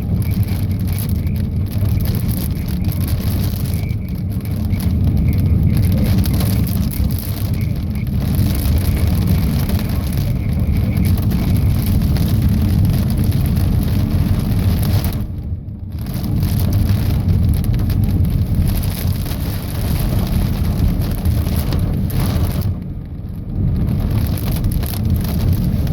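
Heavy thunderstorm rain pelting down steadily, with gusty wind rumbling on the microphone. It eases briefly twice, about two-thirds of the way in and again near the end.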